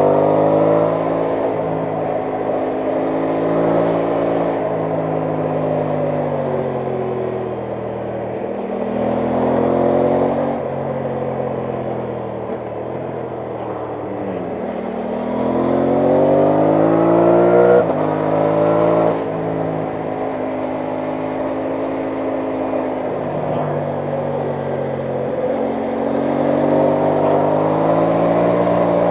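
Aprilia Tuono 660 Factory's parallel-twin engine under way, its pitch climbing under acceleration and dropping at gear changes and when easing off, several times over; the longest climb comes about halfway through, ending in sudden drops.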